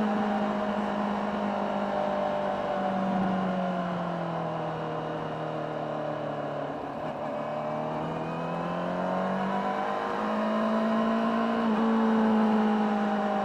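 Honda CBR600RR's inline-four engine running through its factory exhaust while riding. The engine note eases down a few seconds in, then builds back up steadily, over a hiss of wind and road noise.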